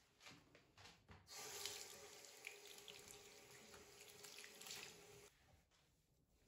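Tap water running into a sink for about four seconds, then turned off, after a few light clicks of handling.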